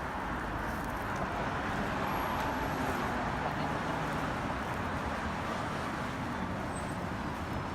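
Steady city street traffic noise: a continuous hum of passing vehicles.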